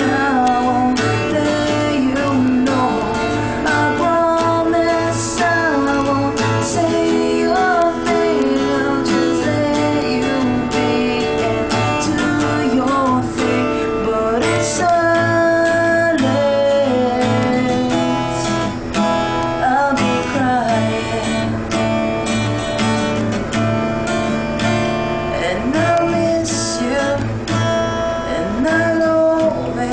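Music: acoustic guitar strumming and picking in a slow ballad, with a melody line running above it, during an instrumental break between sung lines.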